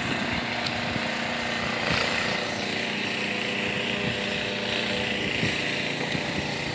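An engine running steadily at a constant pitch, with no change in speed.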